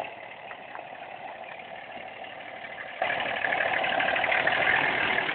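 Pickup truck engine running at low speed, faint at first, then suddenly louder about three seconds in.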